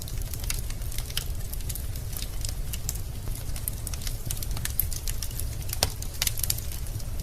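Wood fire crackling in a fireplace: irregular sharp snaps and pops of burning logs over a steady low rumble of the flames, with one louder pop near the end.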